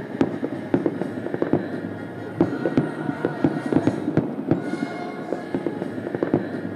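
Fireworks display heard from about a kilometre away: many sharp pops and bangs from bursting aerial shells in quick, irregular succession.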